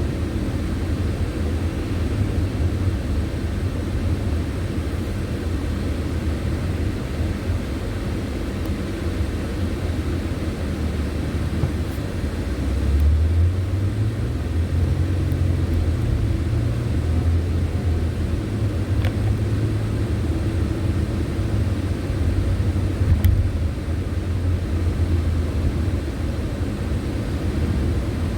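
Steady low road and engine rumble of a car being driven, swelling a little about halfway through.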